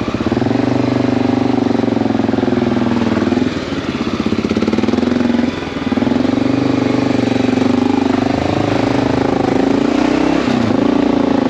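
Motorcycle engine running under throttle as the bike pulls around traffic, its note easing off twice, around four and six seconds in, then picking back up, with road and wind noise underneath.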